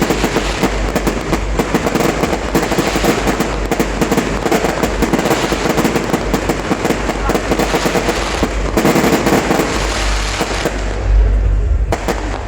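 Fireworks display going off in rapid succession: dense, near-continuous crackling and popping over deep low booms, with the low rumble heaviest near the end.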